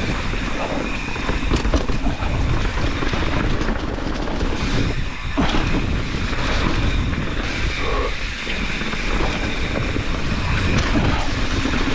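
Mountain bike descending a wet rocky trail: steady wind buffeting on the microphone, with the tyres rumbling and the bike rattling over rock.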